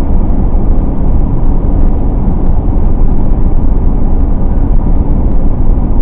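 A car driving along: a loud, steady low rumble of engine and road noise.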